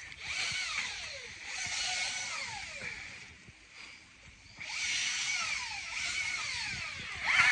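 A power tool running in two bursts of about three seconds each, with a short pause between them. Falling whines run through each burst.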